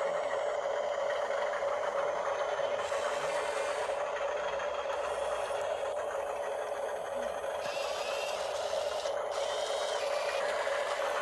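Radio-controlled model excavator's small electric motors and gears running, a steady whine with a light rattle.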